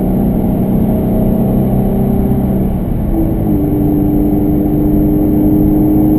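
Subaru BRZ's flat-four engine running under way, with road noise heard from inside the cabin. About halfway through, the engine note changes, jumping to a higher pitch and holding there.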